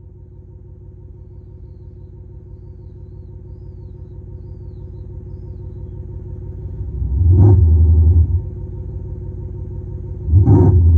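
Electronic exhaust sound from a muffler speaker on a Toyota Prius PHV, imitating a big engine: a steady low rumble that builds slowly, then two short, loud revs about three seconds apart.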